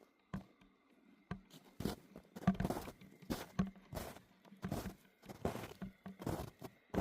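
Footsteps crunching in snow at a steady walking pace, about one step every three-quarters of a second, starting about two seconds in after a few faint clicks.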